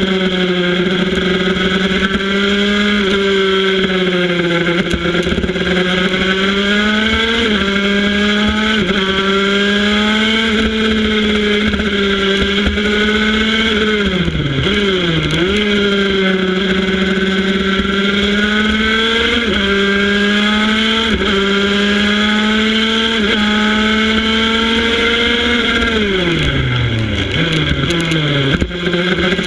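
80 cc prototype racing motorcycle engine held at high revs, heard from on board at speed: the pitch climbs with brief drops at each upshift, dips sharply and recovers about halfway through, then steps down through several downshifts near the end before picking up again.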